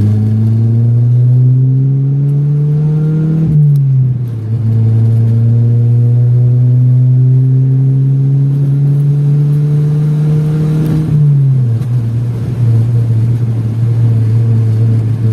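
Chevrolet Vectra engine accelerating hard through the gears: the revs climb, fall at an upshift about three and a half seconds in, climb again in a long pull to about eleven seconds, fall at a second upshift, then hold steady. It runs smoothly, its misfire cured by reconnecting a badly plugged fuel-pump wiring harness.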